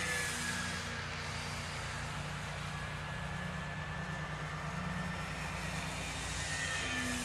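Radio-controlled Wildcat warbird model plane flying, its motor and propeller whine rising and then falling as it makes a pass near the start and another near the end.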